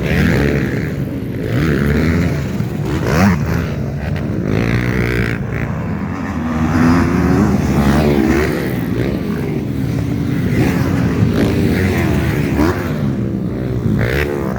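Several motocross bikes racing on the track, their engines revving up and down and overlapping as riders accelerate, back off and pass.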